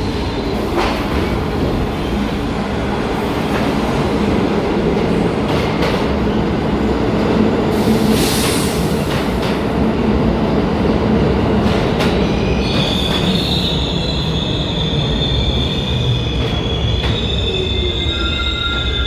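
New York City subway train rumbling through the station, its wheels clicking over rail joints, with a brief hiss about eight seconds in. From about two-thirds of the way through, a steady high-pitched squeal of the wheels on the rails rises over the rumble.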